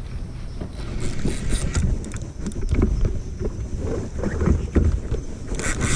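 Wind rumbling on the microphone in a kayak, with scattered knocks and clicks of gear being handled against the hull, several coming in a quick cluster near the end.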